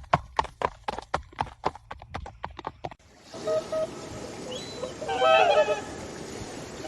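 Hooves clip-clopping in an even rhythm of about four strikes a second, which stops suddenly about three seconds in. A steady hiss follows, with a burst of high chirping, whistled animal calls near the end.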